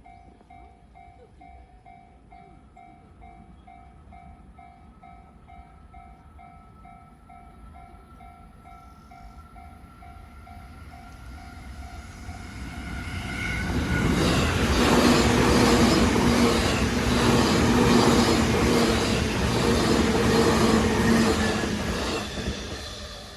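Japanese level-crossing alarm dinging about twice a second while an electric train approaches with a faint rising whine. About halfway through, the train passes the crossing loudly for about nine seconds, its wheels and motors drowning the alarm.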